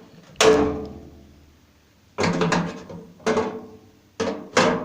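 Sharp knocks of a screwdriver on the microwave's metal parts while prying out the turntable motor's contact, five in all with uneven gaps. Each rings briefly, and the first is the loudest and rings longest.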